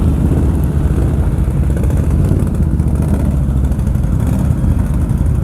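ATV engine running steadily, a loud, even low engine sound with no change in pace.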